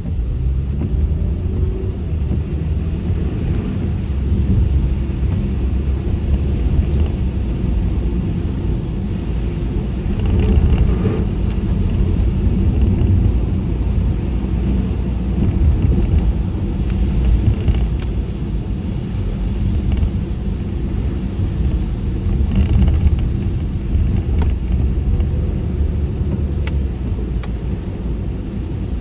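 Car cabin road noise with the windows up while driving in the rain: a steady low rumble of tyres and engine, with scattered faint clicks.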